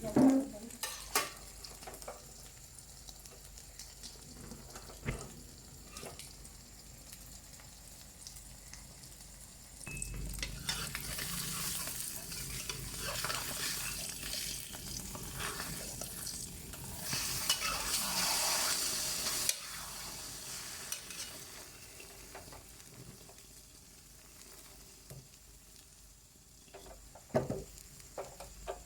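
Food frying in a hot pan, sizzling, with scattered clicks of a utensil on the pan. The sizzle swells about ten seconds in, is loudest a little past halfway, then dies down.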